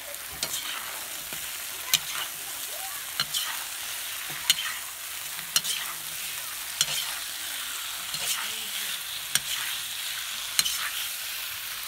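Bear meat and onions sizzling in hot oil in a cast-iron kazan, stirred with a metal spoon that clacks against the pot about once a second over the steady frying hiss.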